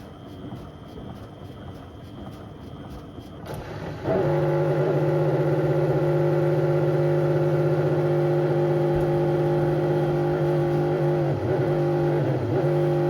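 Beko WM74135 washing machine's motor running. About three and a half seconds in, a quieter, lightly ticking sound gives way abruptly to a loud, steady motor whine, the sound of the drum turning at high speed, which wavers slightly near the end.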